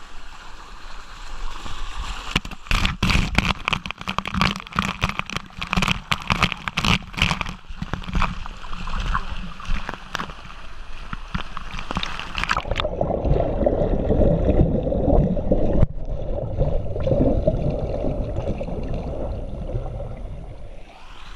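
Swimming-pool water splashing and sloshing close by. About halfway through, the sound turns suddenly muffled and dull, a low churning with the treble gone.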